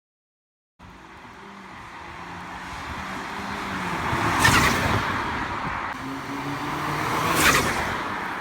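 Road traffic with two cars passing close by, the first about four and a half seconds in and the second about three seconds later, each a brief loud rush of engine and tyre noise.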